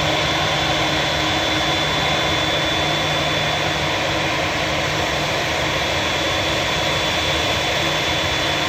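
Jet engines of a Boeing 787-9 running steadily, an even rushing noise with a thin high whine held on one pitch.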